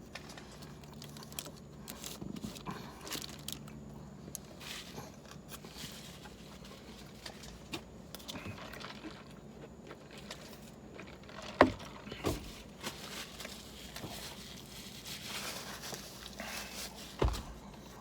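A person chewing and swallowing mouthfuls of a huge multi-patty cheeseburger, faint wet mouth sounds with a few sharper clicks about two-thirds of the way through and near the end.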